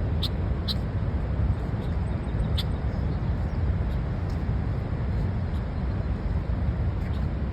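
Steady low outdoor rumble, with three brief, sharp high chirps in the first three seconds.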